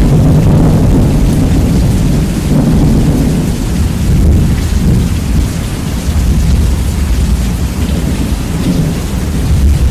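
Rain with rolling thunder, bass-boosted to the point of distortion so that the low rumble dominates over the hiss of the rain.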